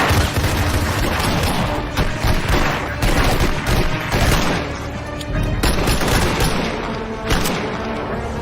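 Repeated bursts of gunfire mixed with a film's action score, which holds steady sustained notes underneath.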